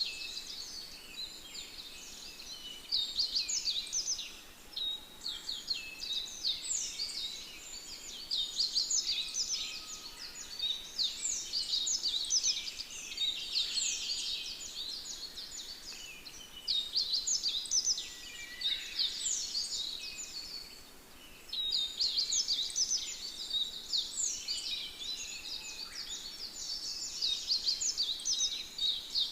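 Many birds chirping and singing at once, a busy chorus of quick high chirps and trills that swells and eases every few seconds.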